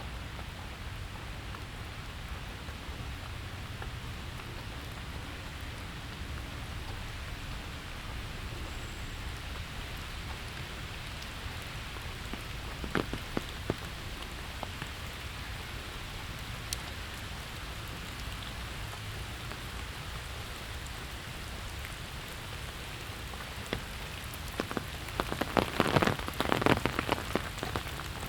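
Steady rain falling and pattering on surfaces, with a few distinct drops striking close by in the middle and a flurry of louder, nearer drop impacts near the end.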